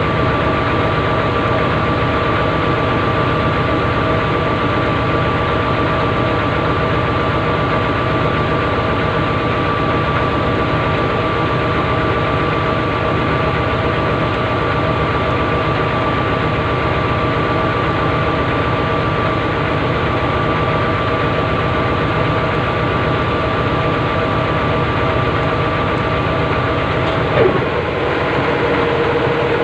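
Heavy mining machine's engine running steadily, with a constant whine riding over it. About two seconds before the end, the whine briefly sweeps down and then settles at a lower pitch.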